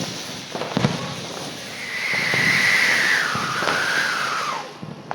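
Diwali firework burning with a steady hiss, with a couple of sharp pops about a second in; a whistling tone comes in under two seconds in, holds, then wavers lower and drops away shortly before the end.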